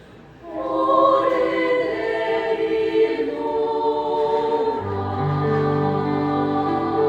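Choir singing long held chords. The voices come in about half a second in after a quiet pause, and lower sustained notes join about five seconds in.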